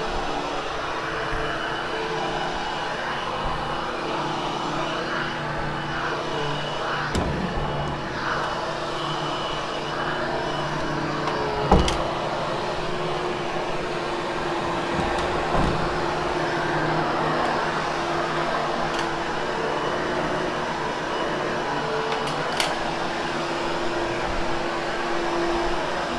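Hoover HushTone upright vacuum running steadily as it grooms a freshly cleaned carpet, with a few knocks as it is pushed about and a sharp knock about halfway through.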